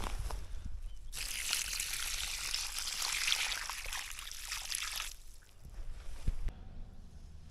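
Water being poured out onto the ground, rainwater splashing and trickling steadily from about a second in until about five seconds in, when the pour stops.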